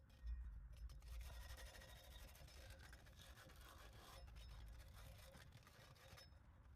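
A hand tool scraping and rasping steadily along the cut edge of a steel exhaust pipe, deburring it. The sound eases off near the end.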